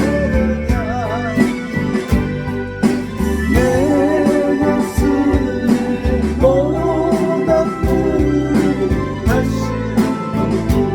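Harmonica carrying a melody with vibrato over a backing track with a steady beat.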